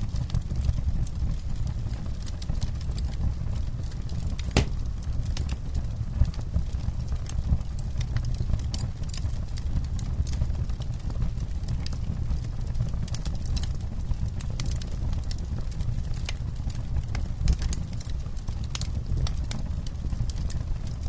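Wood campfire burning, with frequent irregular crackles and pops over a steady low rumble of the flames, and one sharper pop about four seconds in.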